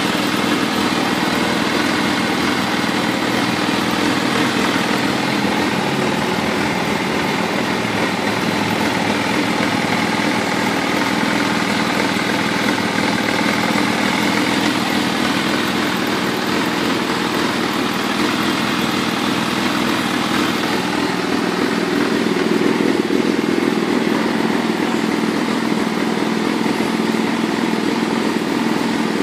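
Kawasaki ZRX400-II inline-four engine idling steadily through an aftermarket carbon muffler, with a slight rise in engine speed about two-thirds of the way through.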